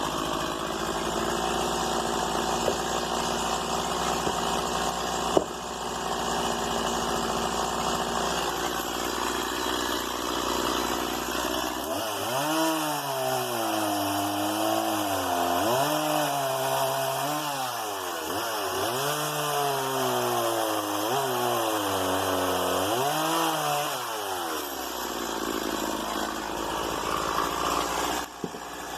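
Stihl MS 170 two-stroke chainsaw running at high revs, then for about thirteen seconds its engine pitch rises and falls in about five swells before it runs steadily again. There is a brief drop near the end.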